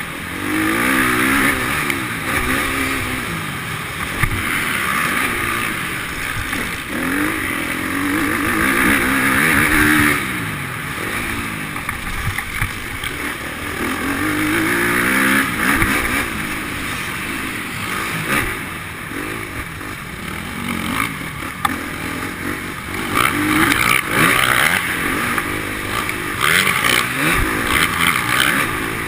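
Motocross bikes riding a track inside a hall, engines revving up and dropping back again and again as they accelerate and ease off, more than one engine heard at once.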